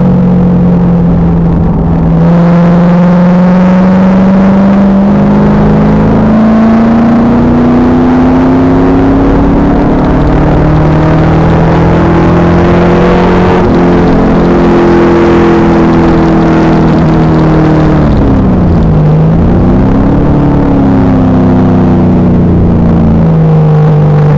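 Stock LS1 V8 of a Pontiac Trans Am Firehawk, through its SLP exhaust, under load, heard from inside the car. Its pitch climbs slowly for about twelve seconds, then holds. About 19 seconds in it drops sharply and climbs back, as when the driver lifts or changes gear.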